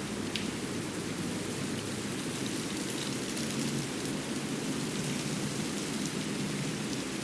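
Steady outdoor ambience of a snowy winter forest: an even rushing noise with a few faint ticks scattered through it.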